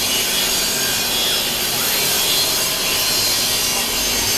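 CNC router spindle cutting wood: a steady, high-pitched machining noise.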